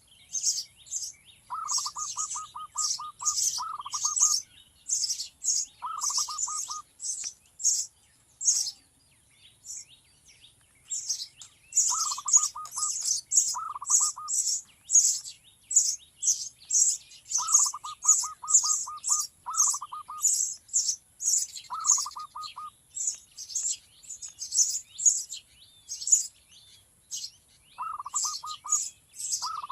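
Birds calling: a near-constant string of short, high chirps, joined every few seconds by about a second of a lower call made of rapid repeated notes.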